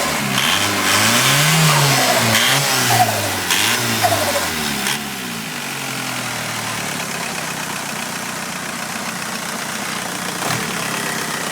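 Volkswagen Golf GT TDI 110 turbodiesel engine blipped repeatedly, about once a second, each time with a short burst of turbo flutter or chatter as the revs fall. About five seconds in it settles to a steady idle.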